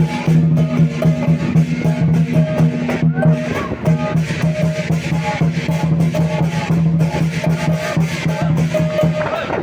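Lion dance percussion playing live: a big Chinese drum beaten in a rapid, driving rhythm with clashing cymbals. It stops shortly before the end.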